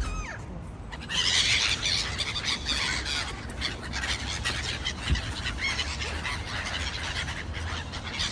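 A flock of birds calling, with many overlapping chirps and squeals that swell into a dense chorus about a second in.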